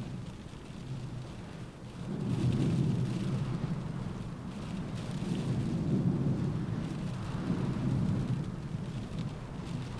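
Rain pattering on a window through a windstorm, with a deep rumble that swells about two seconds in and again around six and eight seconds.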